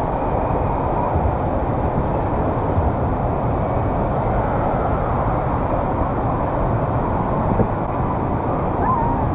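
Steady rushing-water din of an indoor water park, with faint voices in the background.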